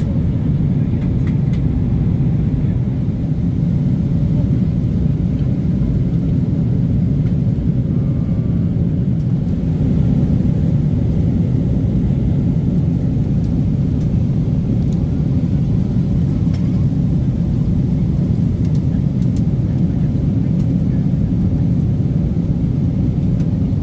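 Steady low rumble of cabin noise inside a Boeing 777-300 airliner in flight, engine and airflow noise heard from an economy seat.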